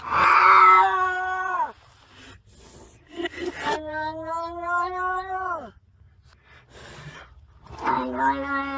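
Domestic cat yowling: three long, drawn-out calls of about two seconds each. The first two drop in pitch as they end.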